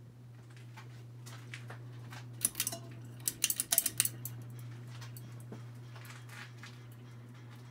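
Harbor Breeze Armitage ceiling fan motor running with a steady low hum. Partway through comes a quick flurry of light metallic clicks and rattles, lasting a second or two.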